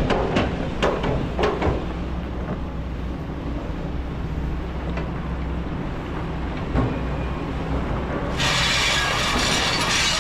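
Kobelco excavator's diesel engine running steadily under load, with several metallic clanks and knocks in the first two seconds. About eight seconds in, a loud steady hiss starts and keeps going over the engine.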